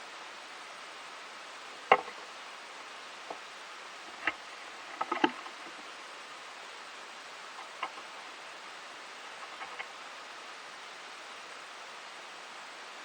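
A squirrel feeding: scattered sharp clicks and taps, the loudest about two seconds in and around five seconds in, over a steady hiss.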